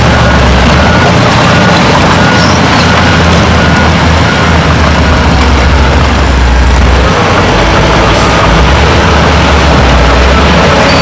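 Heavy diesel earthmoving machinery running under load, with a deep steady engine note that dips briefly about seven seconds in and then comes back.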